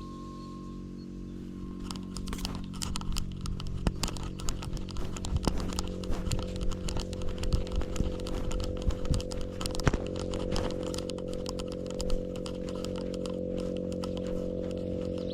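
Rapid, irregular scratching and clicking close to the camera, starting about two seconds in and dying away near twelve seconds, over a steady low hum.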